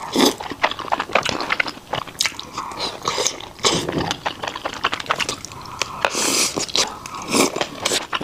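Close-up chewing and mouth sounds of a person eating soft, tender shrimp paste, with many short, irregular wet smacks and clicks.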